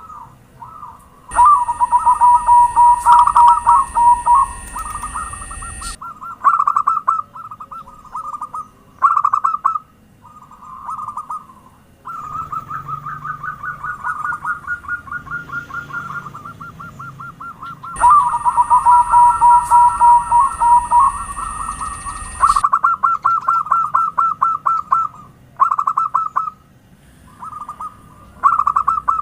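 Zebra doves (perkutut) cooing in rapid staccato trills, several calls overlapping in bursts with short gaps. Two louder passages, a few seconds in and again past the middle, carry a steady high tone alongside the coos.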